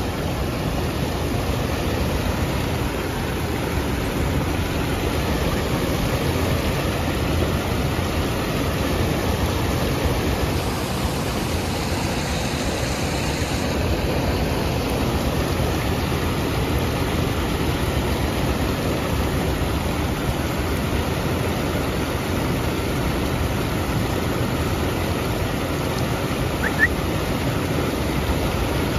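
Waterfall pouring steadily: a constant, even rush of falling water. Near the end there is a brief high chirp.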